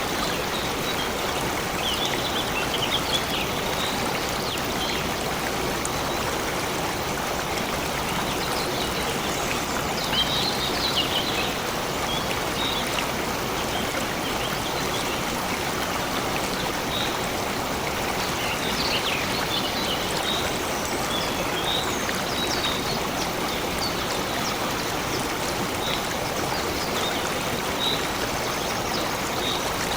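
Stream water flowing steadily, with brief high-pitched sounds scattered over it, in small clusters about ten and nineteen seconds in.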